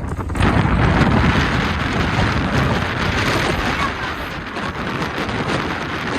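Storm-force wind, about 20 m/s, blowing hard against the microphone, a dense rushing noise with heavy low buffeting that is loudest about a second in.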